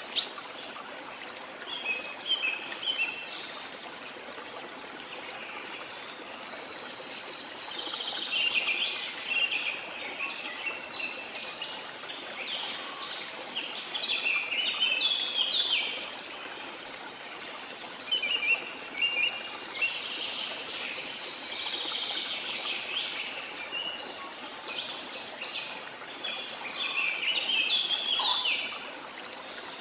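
Birds chirping and trilling over the steady rush of a waterfall. The calls come in bunches of quick notes with quieter stretches between, and the water noise carries on underneath throughout.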